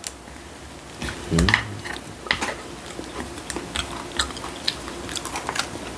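Close-miked chewing and biting of dumpling pancake (mandu-jeon), with many small, sharp clicks and wet mouth sounds. There is a brief hummed voice sound about a second and a half in.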